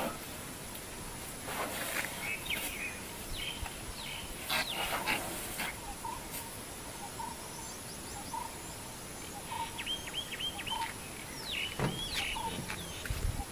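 Birds chirping and calling in short notes and quick downward-sweeping calls, with a run of rapid repeated notes about ten seconds in, over a thin steady high tone.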